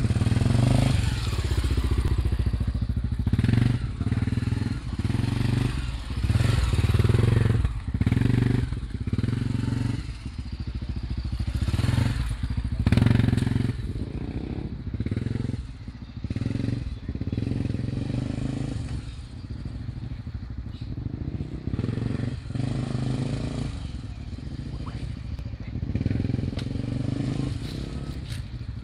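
Honda Tornado 250's single-cylinder four-stroke engine revving up and down over and over in short surges with quick dips between, the bike ridden hard through a tight gymkhana course. Its note is louder and more sharply broken in the first half, softer and more even after about halfway.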